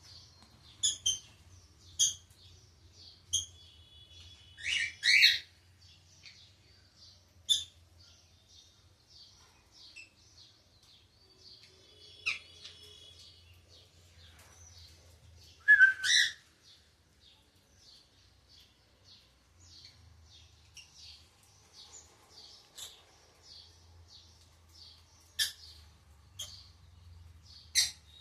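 Lovebirds chirping: a steady run of soft, rapid twittering with loud, sharp calls standing out every few seconds, the loudest a double call about sixteen seconds in.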